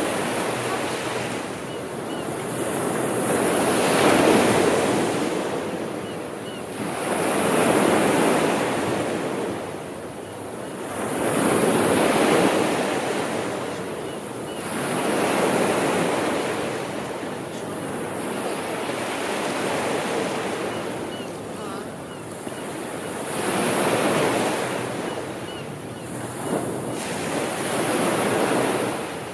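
Sea waves breaking and washing up the shore, the surf swelling and falling back about every four seconds, about seven times.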